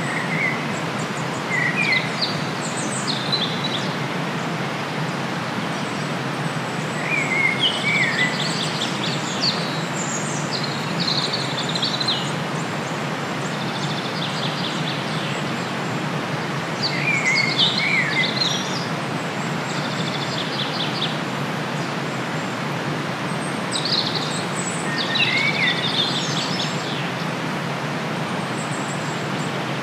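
Outdoor ambience: a steady hiss with a songbird calling in short, quick chirping phrases every few seconds.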